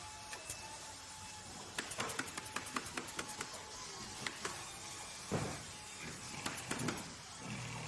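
Workshop or factory ambience: a steady background hiss with a faint whine, a quick run of sharp clicks and taps about two seconds in, then a few scattered knocks and clunks.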